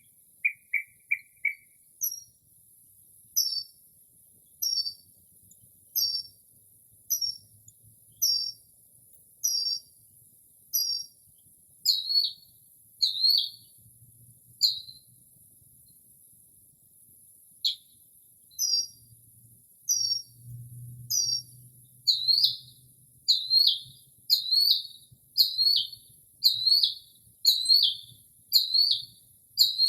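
Northern mockingbird singing, running through borrowed phrases of other birds' calls: a quick string of short notes, then one phrase repeated again and again, about one a second, before it switches to a new one. Near the end it repeats a phrase more quickly, about one and a half a second.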